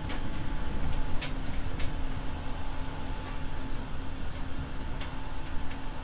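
Running noise heard inside the motor car of a Seibu 301 series resistance-controlled electric train: a steady rumble of the car under way with a faint steady whine, and several sharp clicks through it.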